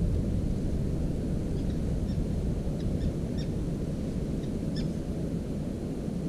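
A few faint, short, high chirps from a small bird, heard in small clusters through the middle, over a steady loud low rumbling noise.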